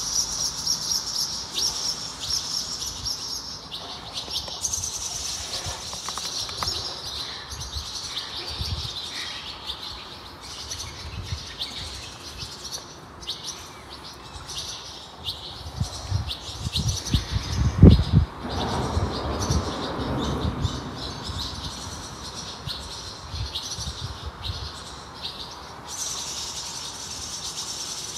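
Small birds chirping and singing continuously. A low rumble builds a little past the middle and peaks in a loud, deep thump, then fades.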